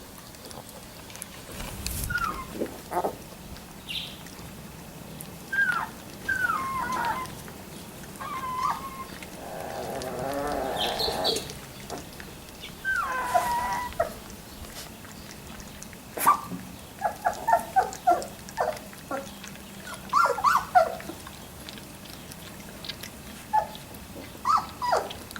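Three-week-old Labrador retriever puppies whimpering and squeaking: many short, high squeaks that drop in pitch, a longer cry near the middle, and quick clusters of squeaks later on.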